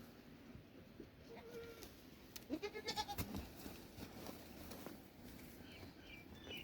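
A goat bleating once, a quavering call about two and a half seconds in, with short high chirps near the end.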